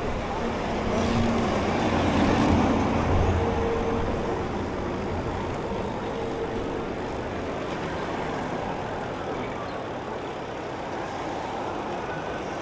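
City street traffic: motor vehicles running steadily, with one passing closer and louder from about one to three and a half seconds in, its engine hum showing a low steady tone.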